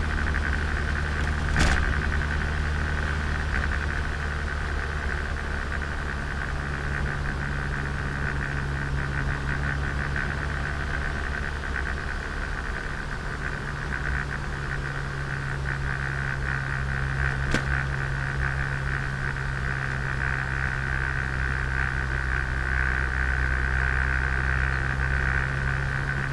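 Turbocharged Nissan Micra engine running steadily while driving, heard onboard together with road noise. Two sharp clicks come through, one about two seconds in and another about two-thirds of the way through.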